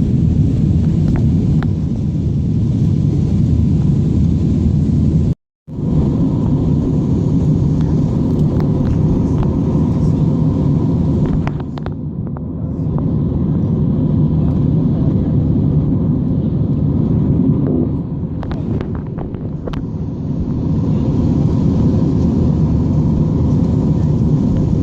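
Jet airliner cabin noise in flight: a steady low rumble of engines and airflow with a faint steady hum. The sound cuts out completely for a split second about five seconds in.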